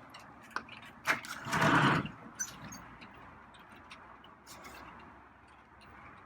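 Light rain tapping, heard as scattered small ticks. Near the start there are a couple of knocks and then a brief scrape about a second and a half in.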